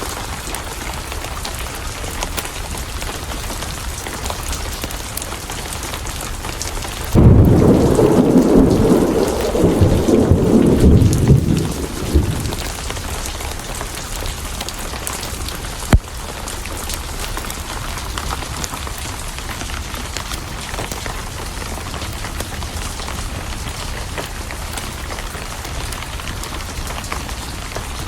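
Steady rain falling, with a sudden loud thunderclap about seven seconds in that rumbles for about five seconds before dying away. A single sharp pop comes about halfway through.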